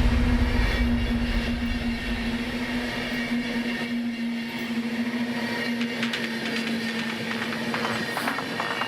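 Train running on the track, its low rumble fading away over the first couple of seconds and leaving a steady hum, with a few clicks near the end.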